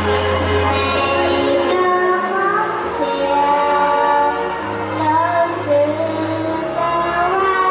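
A female voice singing a melody over backing music with a steady bass line.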